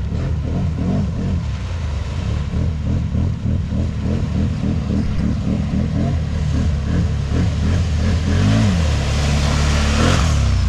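Can-Am 1000's V-twin engine running under constant throttle changes, its revs wavering quickly up and down. Near the end it revs up twice as a rushing noise builds.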